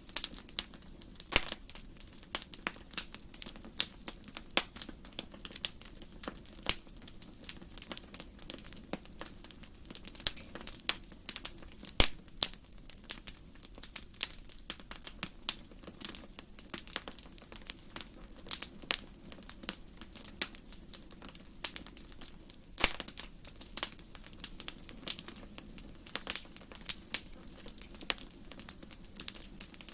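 Wood fire in a fireplace crackling: irregular sharp pops and snaps, several a second, over a steady low background of the burning fire.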